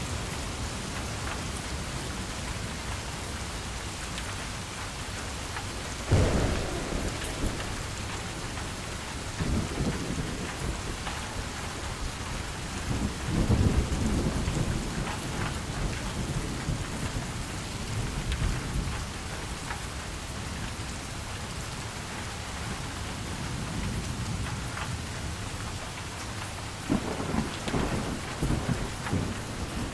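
Steady heavy rain with thunder rumbling through it: a sudden clap about six seconds in, longer rolls around the middle, and another bout of rumbling near the end.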